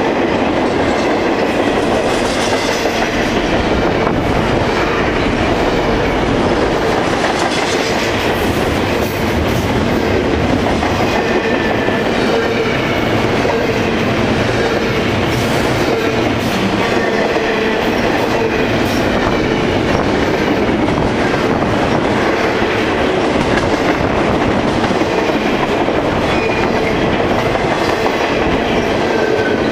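Double-stack intermodal freight train cars rolling past at speed, a steady loud rumble of steel wheels on rail with clickety-clack over the joints and faint high-pitched wheel squeals.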